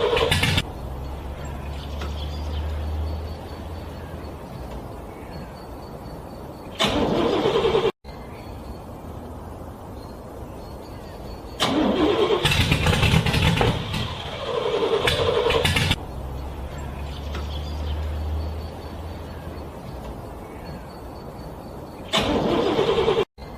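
A car engine being cranked over by its starter in a cold start that struggles to catch. It comes in several separate attempts, the longest lasting about four seconds, with quieter stretches between them, and the sound cuts off abruptly twice.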